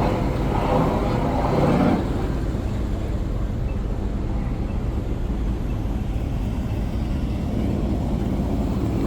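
Vehicle engine running with a steady low rumble, with indistinct voices over it for the first couple of seconds.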